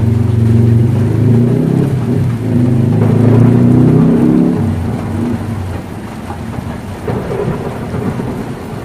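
Heavy rain drumming on a tin roof, with a deep rumble under it that fades away about four and a half seconds in.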